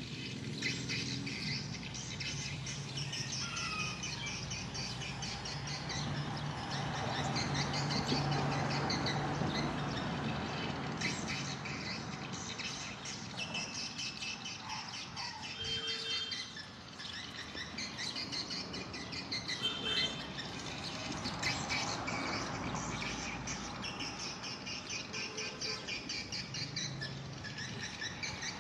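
Swiftlets chirping and twittering continuously in fast, overlapping trains of high chirps, over a steady low hum.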